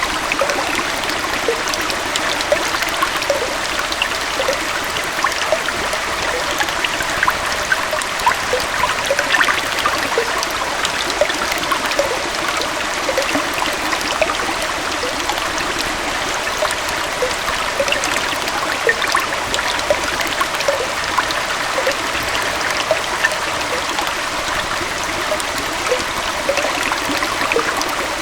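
Small waterfall and stream flowing steadily, a constant rush of water with many small splashes and trickles.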